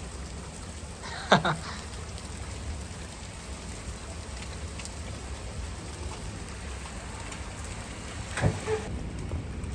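Steady rain falling in a thunderstorm, an even hiss throughout, with one short sharp sound about a second in and a fainter one near the end.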